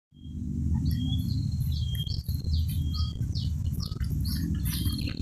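Birds chirping in many short, quick notes over a high insect drone, with a steady low rumble underneath that is the loudest part.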